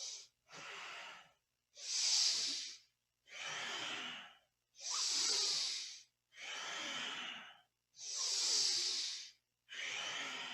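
A person breathing deeply and powerfully through the nose, with inhales and exhales alternating about every second and a half in a steady rhythm, every other breath louder.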